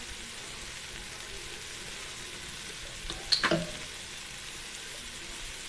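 Mixed vegetables and scrambled egg sizzling steadily as they fry in oil in a pan, with one short clack about halfway through.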